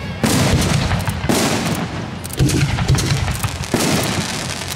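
Aerial firework shells bursting: about four loud booms roughly a second apart, each followed by a rumbling tail and crackle.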